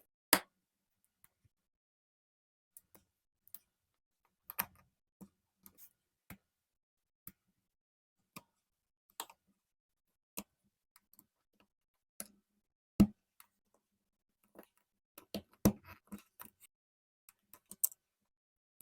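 Lego bricks clicking as they are picked up and snapped together: scattered sharp plastic clicks, a cluster of them around two-thirds of the way through.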